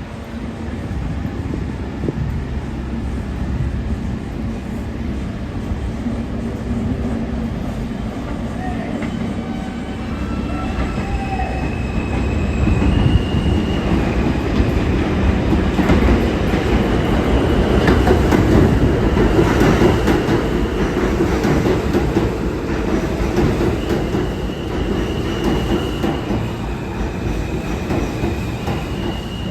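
R160 subway train running along the track, a steady rumble with wheels squealing in high held tones and clacking over rail joints. It grows louder to a peak about two-thirds of the way through, then eases slightly.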